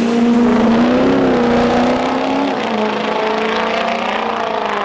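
Turbo-diesel truck engine running hard during a drag-strip pass: a loud, steady drone that wavers slightly, easing a little after about two and a half seconds.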